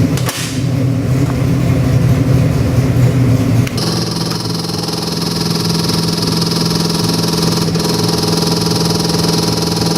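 408 cubic-inch Windsor-based stroker V8 crate engine with FiTech fuel injection running after start-up. About four seconds in the sound changes abruptly from a heavier, rougher run to a steadier, even run with a high hiss on top.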